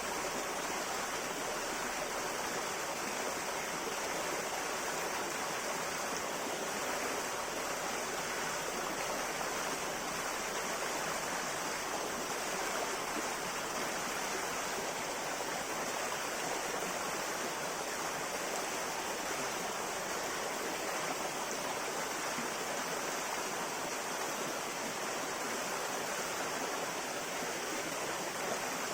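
Steady rushing of water in a flowing river or stream, an even, unbroken wash with no distinct splashes.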